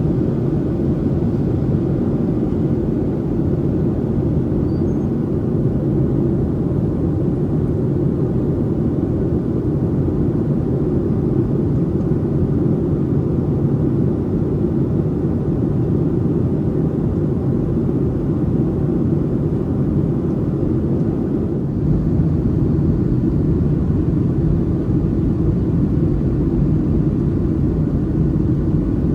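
Steady low rumble of airflow and engines inside a Boeing 737-800's cabin during descent, growing a little louder about three-quarters of the way through.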